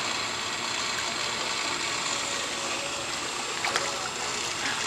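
Steady rush of running water at a backyard swimming pool, with a couple of faint ticks near the end.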